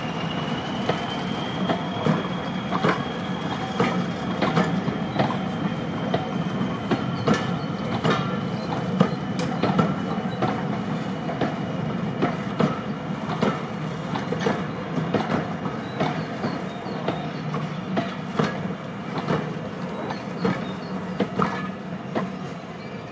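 A train running over jointed track: a continuous run of wheel clicks over the rail joints, with a steady high-pitched whine held throughout.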